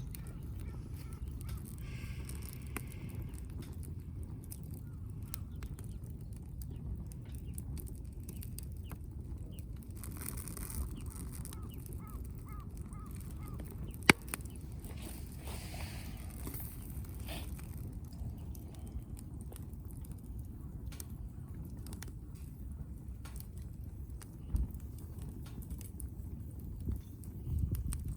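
Wood fire crackling, with scattered small pops over a steady low rumble and one sharp snap about halfway through.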